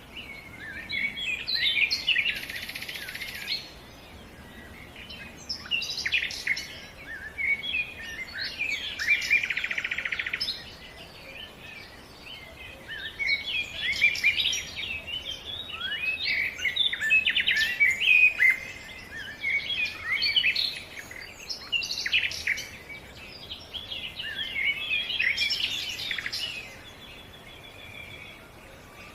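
Several songbirds singing and chirping at once: dense bursts of quick, high chirps and trills with short lulls between them.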